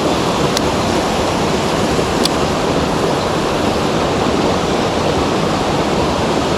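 Steady rushing of a mountain stream's fast water, with two faint ticks in the first couple of seconds.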